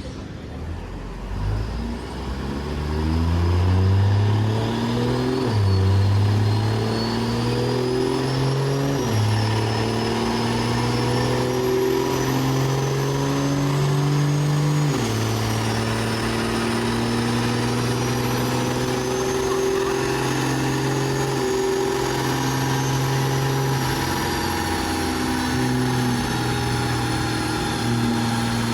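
Diesel truck engine making a full-throttle dyno pull, its pitch climbing and dropping back at each upshift, about five, nine and fifteen seconds in, then holding high and steady. A thin high whine rises and falls above it.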